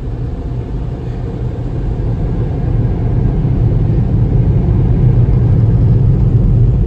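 Low rumble of a car heard from inside its cabin, engine and road noise, growing gradually louder.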